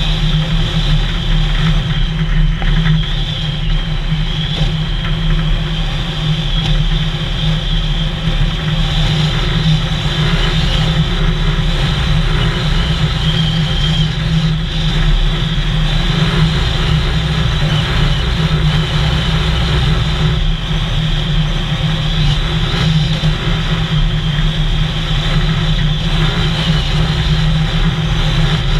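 A vehicle's engine running steadily while driving along a road, with even road noise and no changes in pace.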